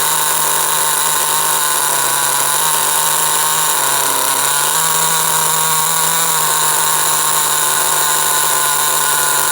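SH .18 two-stroke nitro glow engine in an HPI RS4 3 Evo RC car idling steadily, set sloppy rich for the first tank of its break-in. Its pitch wavers slightly up and down.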